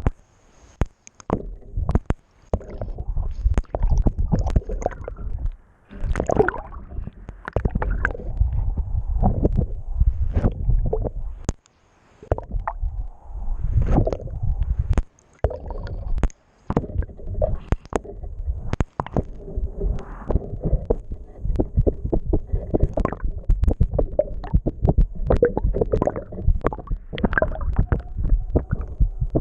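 Water rushing and gurgling against a submerged camera while under sail: a low rumble with scattered knocks and clicks, breaking off briefly several times.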